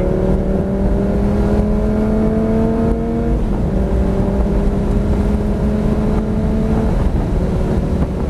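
Lamborghini Gallardo's V10 engine under full throttle as the car accelerates hard past 140 mph, its pitch climbing steadily. The pitch drops a little twice, about three and a half and seven seconds in, as the paddle-shift gearbox changes up. Heard from inside the cabin.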